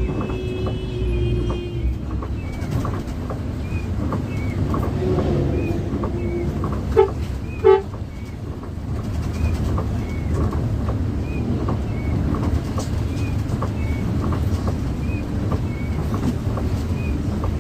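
Bus running on the road, a steady drone of engine and road noise, with two short horn toots about seven seconds in and a faint high chirp repeating about once a second.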